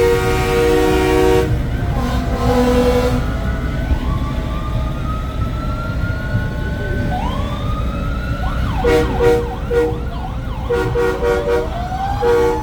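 Truck air horn sounding a sustained chord, cutting off about a second and a half in, then sirens winding up and falling away over several seconds, with short horn blasts breaking in near the end.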